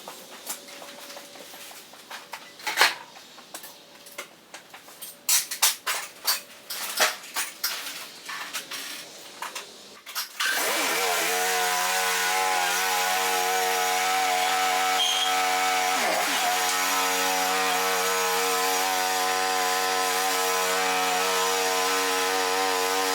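Scattered clicks and knocks for about ten seconds, then the engine of a John Deere D125 lawn tractor starts up, its pitch rising as it catches, and runs steadily, with a brief dip about sixteen seconds in.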